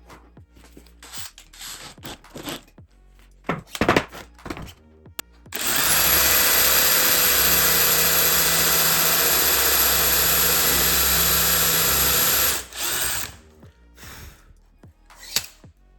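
An electric power tool runs at a steady speed for about seven seconds, with a short second run just after it stops. Before it, a series of clicks and knocks from handling the tool and workpiece.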